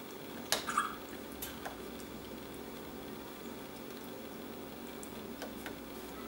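Dog hiccuping: short, sharp hics, the loudest pair about half a second in, with a couple of fainter ones a second later and again near the end, over a steady low hum.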